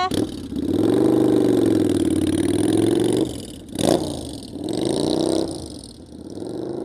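A motorcycle engine revving and running, its pitch wavering up and down, loud for about three seconds. A sharp knock comes near four seconds in, then a second shorter burst of revs that fades away.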